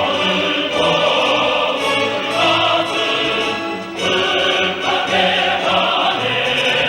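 Choir singing with orchestral accompaniment, in a classical or operatic style.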